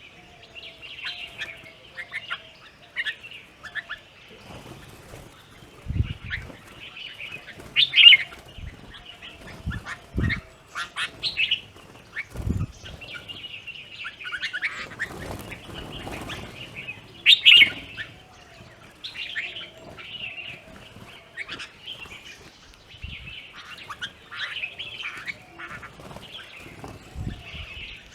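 Plum-headed parakeets and Himalayan bulbuls chirping and calling busily, many short high calls overlapping, with a lower repeated call running underneath at the start and the end. A few short low thumps come in the middle.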